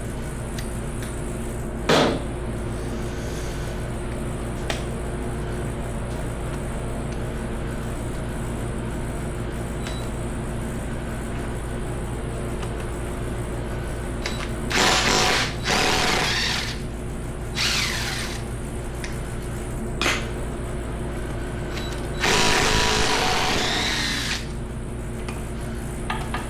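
A hand-held power tool runs in short bursts, once about halfway through and again for about two seconds near the end, while bolts are worked loose during a Ford 5.4 2V V8 teardown. A steady low hum sits underneath throughout.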